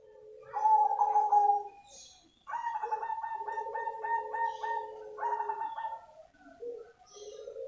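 Zebra dove of the black cemani form singing: phrases of pulsing coo notes. A short phrase comes about half a second in, then a longer rolling phrase of about three pulses a second a couple of seconds later.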